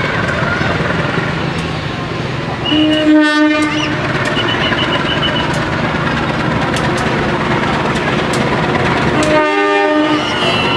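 A train running past with a steady rumble while its locomotive horn sounds twice: a blast about three seconds in and another about six seconds later.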